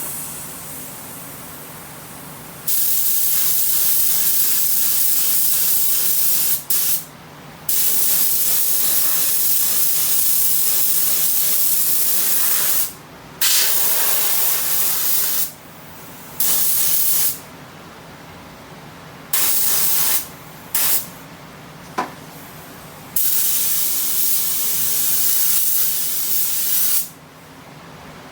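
Compressed-air touch-up spray gun spraying paint in repeated trigger pulls: a loud hiss for a few seconds at a time, with shorter blips and pauses between, and a softer steady hiss in the gaps.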